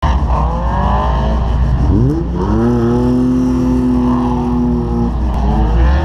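Holden VY One Tonner ute's engine being revved: the revs fall away at first, climb quickly about two seconds in, are held steady for a couple of seconds, then drop back near the end.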